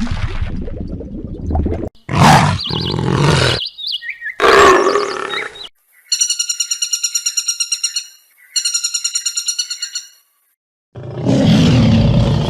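A run of separate animal sound clips: rough roaring and growling calls, and twice a fast, evenly pulsed chattering call of about a dozen pulses a second, with short silent gaps between clips.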